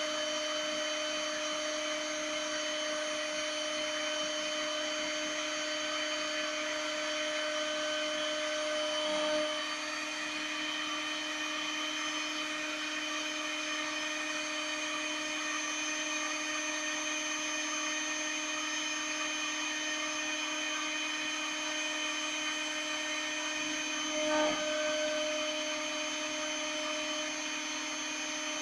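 CNC spindle motor running steadily with a high whine while milling a copper-clad circuit board. There are two brief changes in tone and loudness, about a third of the way through and again near the end.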